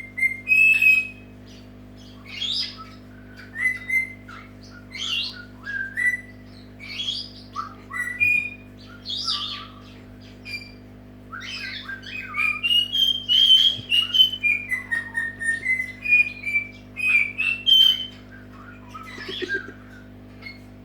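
Senegal parrot calling in a long run of short whistles and squawks that bend up and down in pitch, coming fastest and loudest in the second half, over a faint steady hum.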